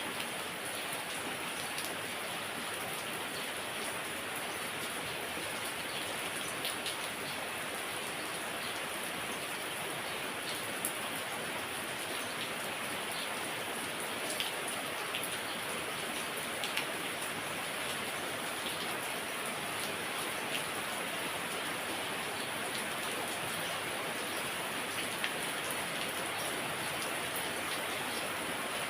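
Heavy rain falling steadily, with scattered louder drops striking here and there.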